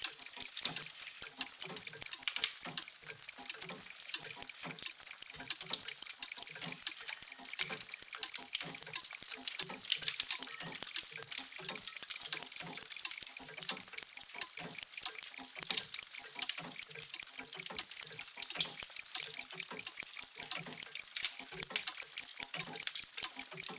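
Many mechanical clocks ticking at once, their ticks overlapping into a dense, uneven clatter of sharp clicks with softer, lower tocks among them.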